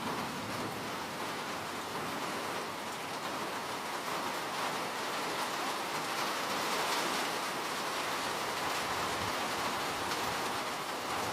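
Steady rainfall, an even hiss of many drops pattering, swelling slightly midway.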